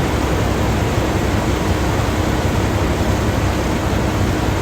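Steady loud rushing vehicle noise with a low rumble.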